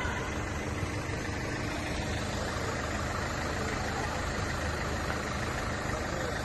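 A vehicle engine running steadily at idle, amid continuous street noise.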